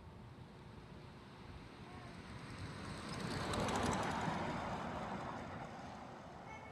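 A vehicle passing by: a rush of noise that builds to a peak about four seconds in and then fades away.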